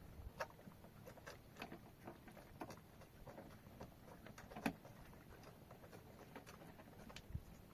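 Near silence with faint, scattered light clicks and taps, one sharper click about four and a half seconds in.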